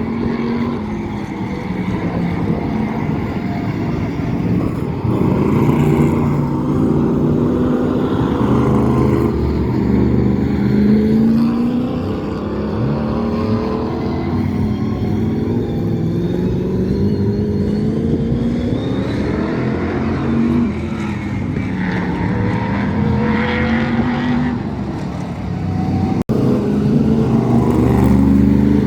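V8 Hotstox oval race car engines running at speed, the pitch climbing again and again as they accelerate, then dropping back as they lift off.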